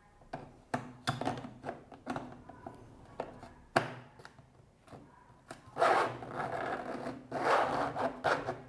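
Wooden workpiece being handled: a series of sharp knocks and clicks, then two longer stretches of rubbing or scraping against wood in the second half.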